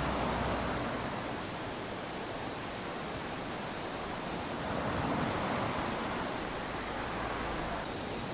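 Small waves lapping onto a sandy beach, a steady wash with swells in loudness about every four to five seconds.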